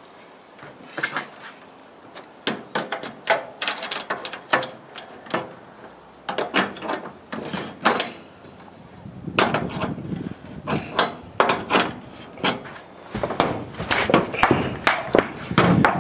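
Irregular knocks, taps and clatter of metal parts and tools being handled while solar-panel mounting rails are fixed in place on a roof. The knocks come in clusters and are busiest near the end.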